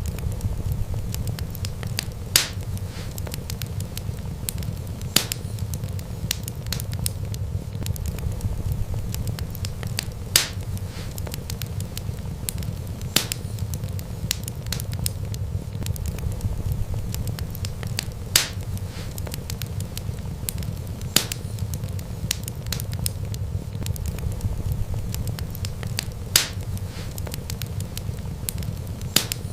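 Wood fire burning with a steady low rumble and light crackling, broken by sharp loud pops every few seconds.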